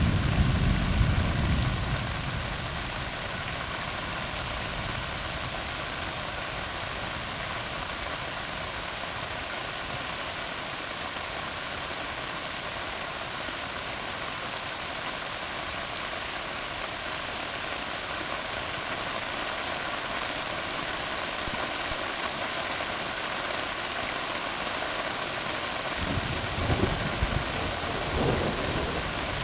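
Steady rain falling on a tar road, an even hiss. A roll of thunder dies away over the first couple of seconds, and another low rumble comes in near the end.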